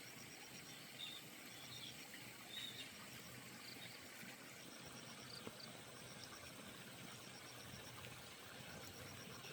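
Faint rural outdoor ambience: an insect chirps in repeated groups of short rapid pulses, with a few brief bird chirps in the first few seconds.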